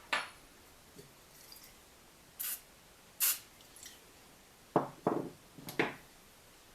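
Several clinks and knocks of metal parts or tools being handled on a workbench, the loudest three close together near the end, with two short hissing bursts in the middle.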